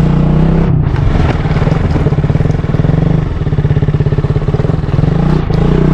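Honda CRF Rally motorcycle's single-cylinder engine running while being ridden, its exhaust beat pulsing steadily.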